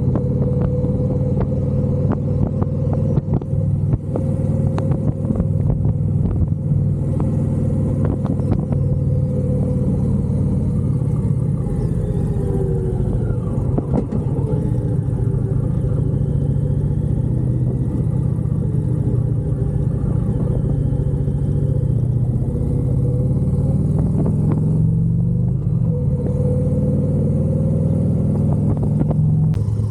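Motorcycle engine running under way with road and wind noise. The engine note drops about halfway through and rises again near the end as the rider eases off and then accelerates.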